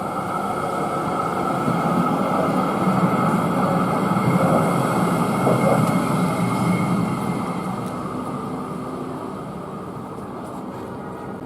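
A tram passing by: running noise with a steady high whine, swelling to its loudest about halfway through and then fading away.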